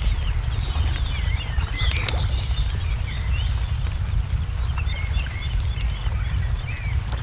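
Layered nature ambience: small birds chirping and whistling over a steady low rumble, with scattered sharp pops and crackles of a wood fire.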